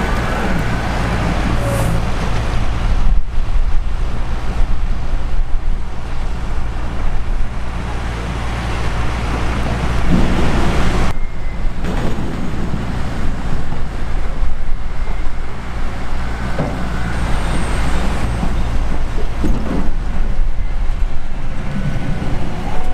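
Heavy diesel farm machinery running steadily with a deep drone, the sound changing abruptly twice as one stretch of running machinery gives way to another.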